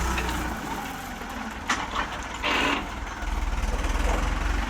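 Mahindra DI 475 tractor's diesel engine running while working a front bull attachment. Its low rumble drops back for a couple of seconds and then picks up again, with two sharp clicks and a short hiss in the middle.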